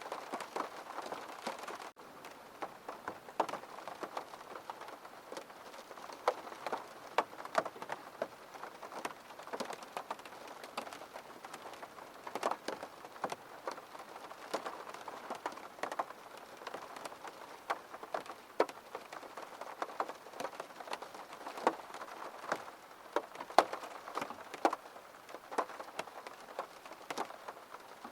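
Rain falling on window glass, a steady hiss with many separate drops tapping sharply. It is heavier for about the first two seconds, then drops suddenly to a lighter, steady fall.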